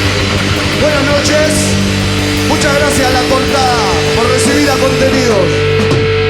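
Loud rock band playing an instrumental passage with distorted guitars over held chords; a lead line with bending notes comes in about a second in and runs through the middle.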